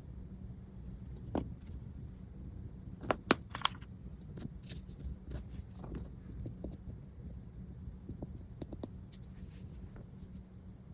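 Light clicks and taps of small bench work on accordion reed plates, loudest as three sharp clicks in quick succession about three seconds in, over a low steady hum.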